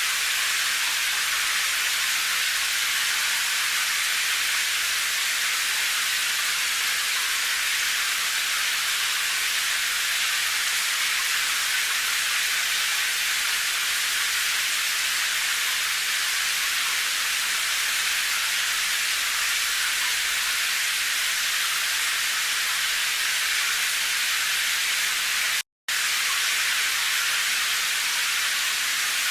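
Steady rain, a dense even hiss with no single drops standing out. It cuts out to silence for a split second near the end.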